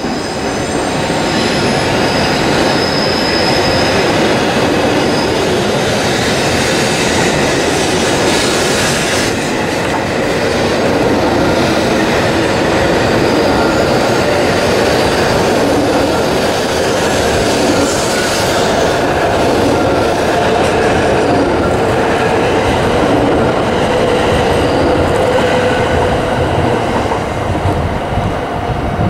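Hokuriku Shinkansen E7/W7-series train rolling slowly along the track, steel wheels squealing against the rails in thin high tones over a steady rumble, with clicking over the rail joints and points.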